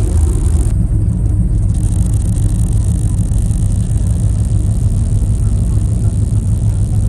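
Steady low rumble of a car ferry's engines heard on board.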